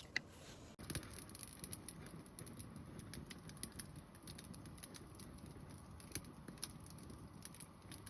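Campfire crackling faintly, with irregular small pops and snaps over a low hiss.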